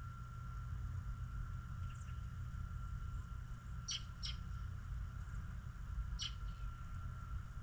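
Small songbirds giving brief, sharp high chirps: a quick pair about four seconds in and another about six seconds in. Under them runs a steady low rumble and a thin, constant high whine.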